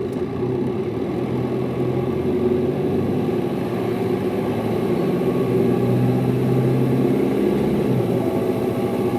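Hino Liesse bus's diesel engine running steadily while the bus drives, heard from inside the passenger cabin.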